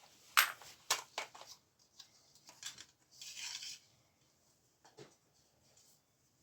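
Toilet cistern fittings, hard plastic and metal parts, clicking and knocking as they are handled and fitted: a few sharp clicks in the first three seconds, then a short rustle, and one faint click about five seconds in.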